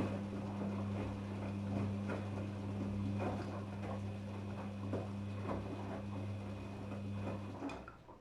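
Daewoo DWD-FT1013 washing machine in its rinse cycle: the motor hums steadily while driving the wash drum, with irregular splashing of water and laundry over it, and the motor stops near the end.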